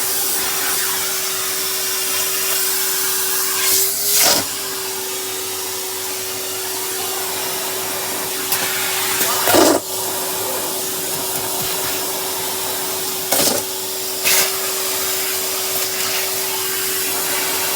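Henry cylinder vacuum cleaner running steadily, with four brief louder rushes as small objects, the paracetamol tablets being fed to it, are sucked up the hose, the motor's hum dipping briefly at the second one.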